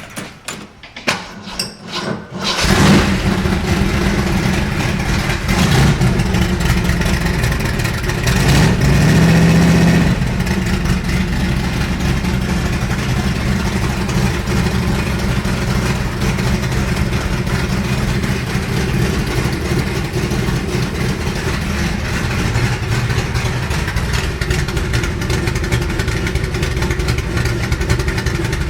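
Ford 427 side oiler V8 cold-started: it catches about three seconds in, is revved twice, then settles into a steady idle.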